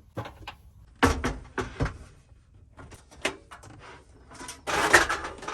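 Knocks, clicks and clatter of camping gear being handled inside a van as a camp stove is taken out, with a longer sliding scrape near the end, the loudest sound.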